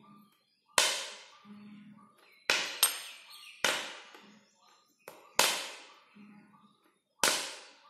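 A tuning fork struck against a rubber pad again and again: six sharp strikes a second or two apart, each followed by a ring that fades away.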